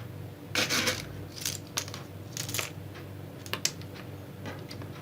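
Hazelnut shells and small pebbles being handled and set on the soil of a bonsai pot: a run of irregular light clicks and rustles, the loudest cluster about half a second to a second in.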